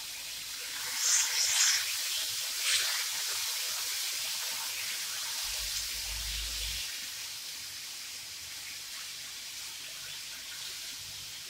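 Diced chicken sizzling in hot oil in a frying pan, with louder crackling about one to three seconds in, then a steady sizzle that slowly fades.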